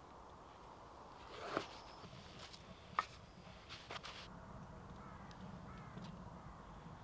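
Faint bird calls in woodland, with a sharp click about three seconds in and a couple of short knocks soon after.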